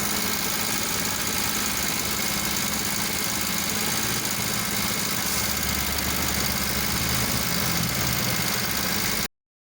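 Suzuki F6A 12-valve three-cylinder engine idling steadily, until the sound cuts off suddenly near the end.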